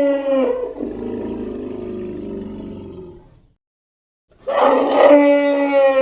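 Custom creature roars made as sea rhinoceros sound effects. A pitched roar ends about half a second in and trails into a lower, drawn-out call that fades out after about three seconds. After a second of silence, a second loud roar starts about four and a half seconds in.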